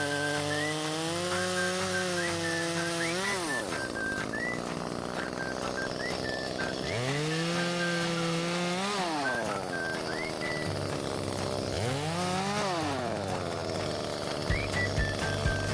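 Chainsaw engine revving high as it cuts firewood, then dropping back to idle about three and a half seconds in. It revs up again near the middle and drops off, then gives a short rev later on.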